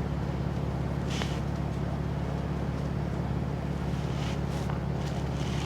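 A steady low mechanical hum, with a few faint light clicks and rustles about a second in and again around four and a half seconds.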